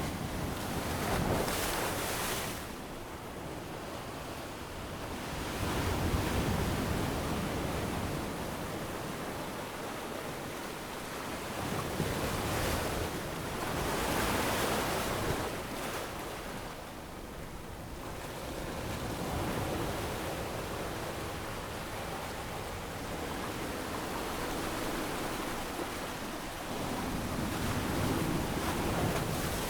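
Ocean waves breaking and washing up on a sandy beach, the surf swelling every few seconds over a steady wash, with some wind.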